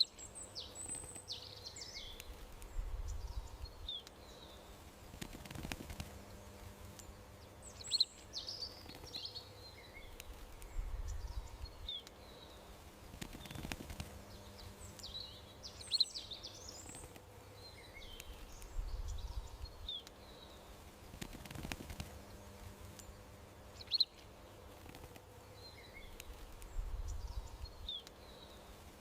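Small songbirds chirping and trilling in garden ambience, over a faint steady hum. A sharp click, a burst of chirps and a low rumble come back about every eight seconds, so the same short stretch of birdsong repeats in a loop.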